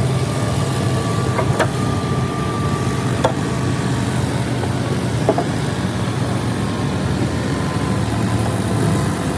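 An engine running steadily, with a few sharp clicks or knocks over the top.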